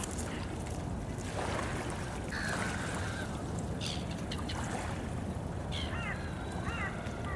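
Birds calling over a steady low background of outdoor ambience, with a quick run of short repeated calls near the end.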